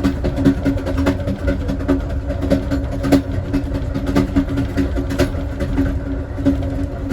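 Passenger train rolling along the track: a steady rumble and hum with irregular sharp clacks from the wheels on the rails.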